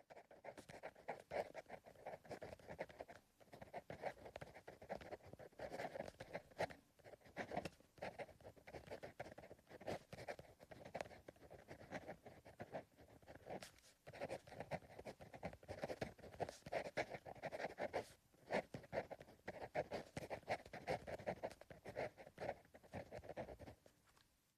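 Pencil writing on paper: a steady run of quick, soft scratching strokes, broken by a few short pauses.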